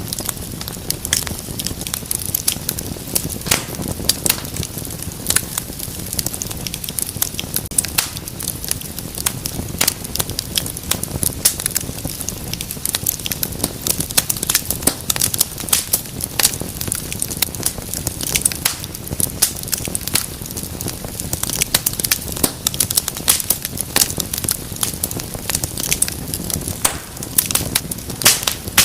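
Wood fire burning in a fireplace: dense, irregular crackles and pops over a low steady rumble of the flames.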